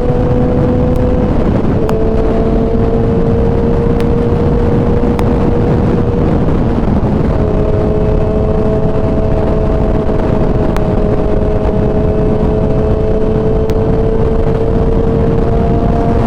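Kawasaki ZX-10R's inline-four engine running at steady cruising revs while riding, its note slowly rising, with brief breaks in the note about a second and a half in and again about seven seconds in.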